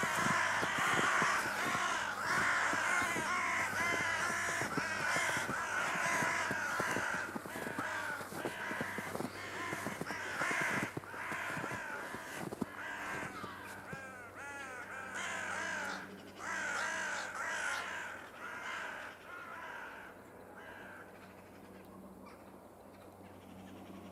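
A flock of crows cawing, many harsh calls overlapping, dying away over the last few seconds.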